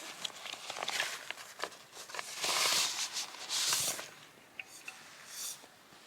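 Footsteps: a few crunching, rustling steps with small clicks between them, the loudest two in the middle.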